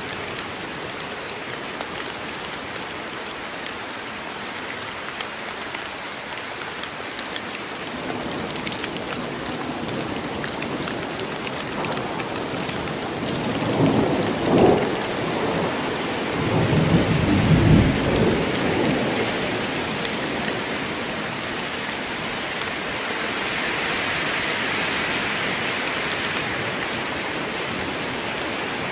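Steady rain falling. About halfway through, a roll of thunder rumbles up, peaks twice and dies away over a few seconds.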